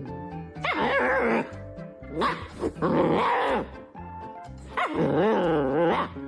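A dog giving three long, wavering vocal calls, each about a second long, over background music.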